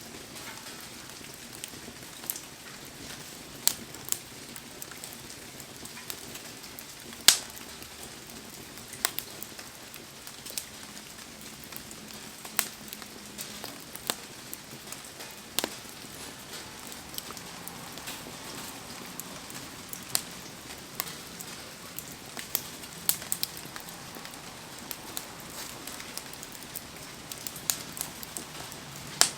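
Wood fire crackling, with sharp pops at irregular intervals, the loudest about seven seconds in, over the steady hiss of heavy rain.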